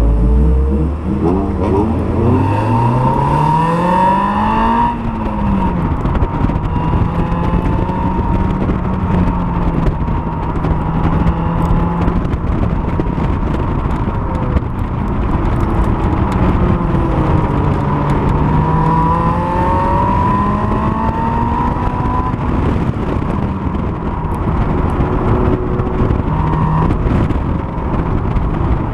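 Honda S2000's four-cylinder engine pulling hard: its pitch climbs steadily over the first few seconds, then rises and falls with throttle and gear changes as the car is driven at pace.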